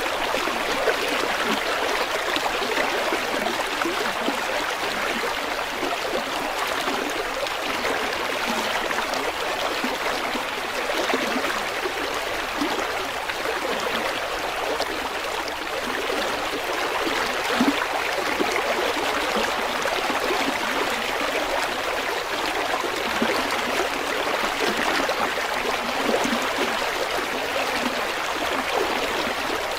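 River water flowing steadily over rocks, a continuous rushing with small gurgles and splashes.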